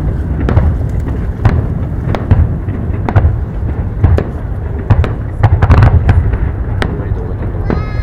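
An aerial fireworks display with shells going off in quick succession: many sharp bangs and crackles over a continuous low rumble.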